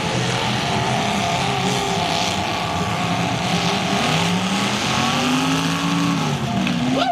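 Several demolition derby car engines running and revving together, their pitches rising and falling as the cars drive about the arena. A brief sharp rising whine comes near the end.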